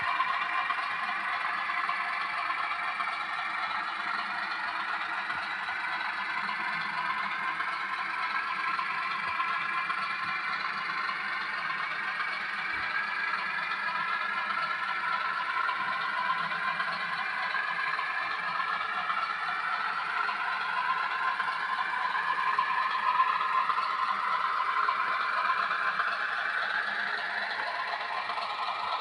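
O gauge model train running on the track: a whirring drive with wheels clattering and rattling over the rails, its whine rising in pitch near the end.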